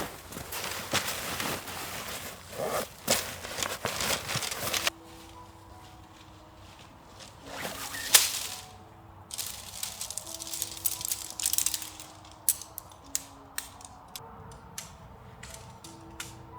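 Close rustling and crackling handling noises with sharp clicks, loudest over the first five seconds and again briefly about eight seconds in, then lighter scattered ticks. Soft, slow background music of held notes comes in about five seconds in.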